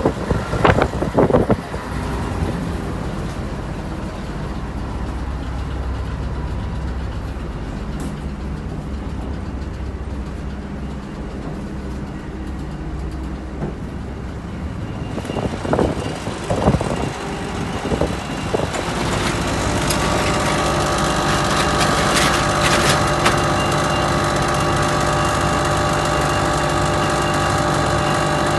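Diesel truck engine idling steadily, with a few clunks near the start and again around sixteen seconds in. About nineteen seconds in, a second machine starts running and stays on, louder and with a steady whine over the engine.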